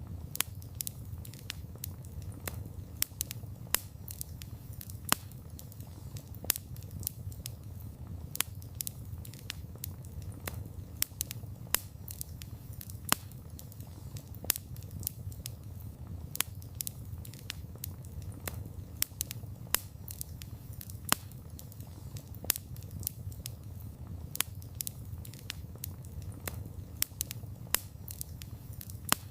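Wood campfire crackling: frequent sharp irregular pops and snaps over a steady low rumble of the burning fire.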